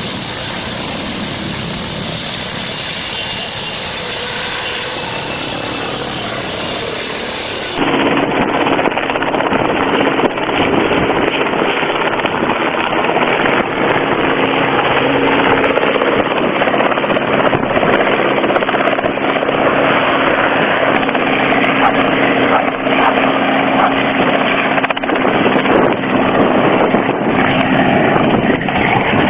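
Helicopter engine and rotor noise running continuously. About 8 seconds in it changes abruptly to a louder, duller recording with a steady hum and frequent light clicks.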